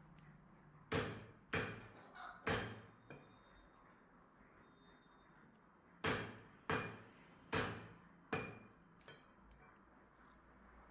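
Meat cleaver chopping chicken on a chopping block: three heavy chops, a pause, then four more, each followed by a lighter tap or two.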